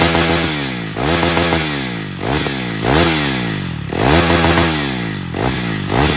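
KTM single-cylinder motorcycle exhaust being revved in short throttle blips, the engine pitch climbing quickly and falling back to idle about six times.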